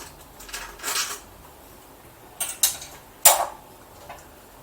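A few short, sharp clatters and scrapes of hard parts being handled as an old ceiling light fitting is worked loose, the loudest a little over three seconds in.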